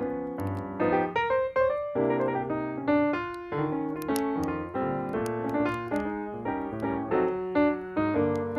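Background piano music: a gentle melody of chords and single notes.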